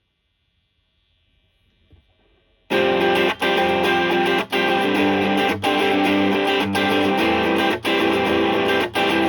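Electric guitar playing overdriven chords through a Suhr Shiba Drive Reloaded, a Tube Screamer-style overdrive pedal, with a mid-heavy tone. It comes in loud after a couple of seconds of near silence, with a short break in the sound about once a second.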